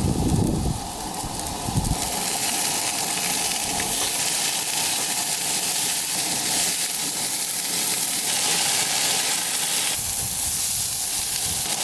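Potatoes frying in olive oil in a pan, a steady hissing sizzle, with a low rumble in the first two seconds and again near the end.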